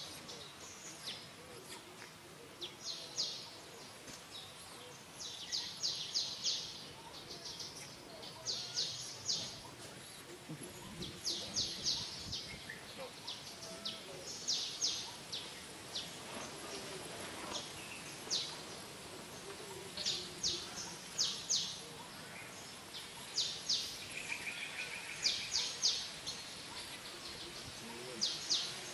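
Small bird chirping in quick runs of three to five short, high notes, repeated every second or two over a steady outdoor background hiss, with a brief, lower, rapid trill near the end.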